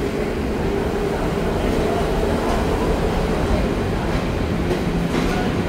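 Electric trains moving through the station: a steady low rolling rumble with a faint hum and a few wheel clicks over the rail joints.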